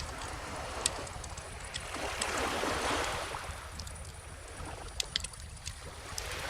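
Calm ocean waves washing onto a beach, one wave swelling and fading through the middle and the next building near the end, under a bonfire crackling with sharp pops, the loudest about a second in and about five seconds in.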